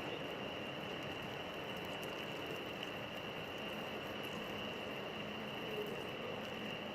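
Metal lathe running during a threading job, a steady mechanical noise with a high, even whine over it.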